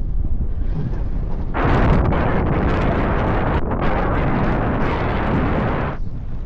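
Heavy wind buffeting the microphone while riding a road bike, a constant low rumble that swells into a louder rushing gust from about a second and a half in until shortly before the end.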